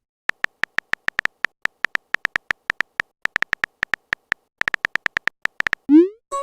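Rapid run of short electronic beeps at one high pitch, unevenly spaced like a text-typing sound effect. Near the end comes a quick rising electronic glide.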